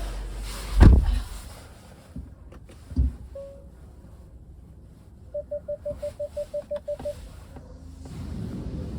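Two heavy thumps, then a short electronic beep and a quick run of about eleven even beeps. Low running noise drops away after the first thump and comes back near the end.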